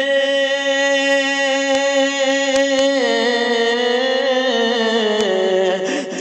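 A male naat reciter's unaccompanied voice holding one long sung note, steady for about three seconds and then sliding slowly down in pitch towards the end.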